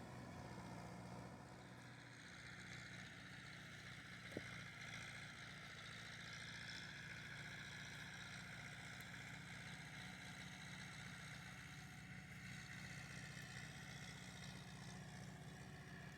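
A faint engine running steadily, with one sharp click about four seconds in.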